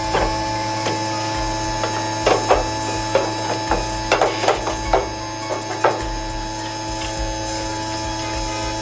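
A dozen or so irregular sharp clicks and knocks over a steady hum, bunched in the first six seconds.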